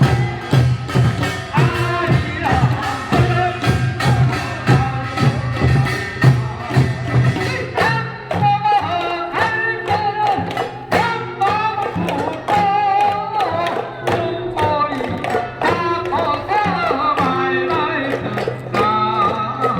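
Korean folk singing with percussion keeping a steady rhythm; the voices come in more strongly about halfway through.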